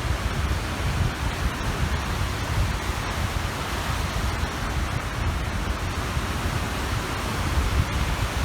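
Small waves washing on a reservoir shore, with wind buffeting the microphone in an uneven low rumble under a steady hiss of water.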